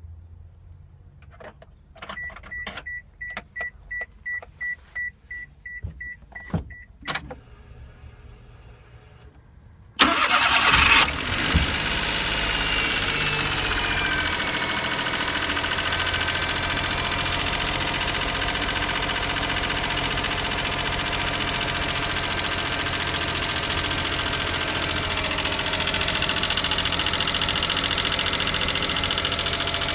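A few clicks and a quick run of high electronic chime beeps, then about ten seconds in the Daihatsu Hijet's EF-DET turbocharged three-cylinder engine starts, its revs falling back as it settles into a steady idle. The idle carries the abnormal engine noise that the owner means to cure with a valve clearance (lash) adjustment.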